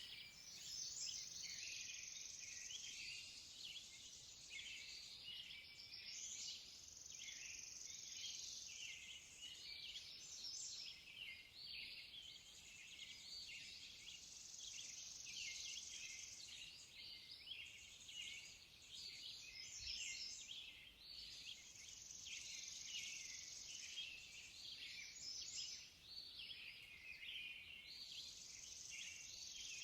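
Faint birdsong: many small birds chirping and singing continuously.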